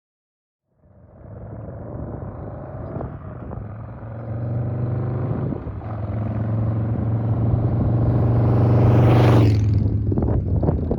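Harley-Davidson Milwaukee-Eight V-twin running through Vance & Hines Big Shots Staggered exhaust on a ride-by. The steady exhaust note comes in about a second in and builds as the bike approaches. It is loudest near the end as the bike passes, then starts to drop away.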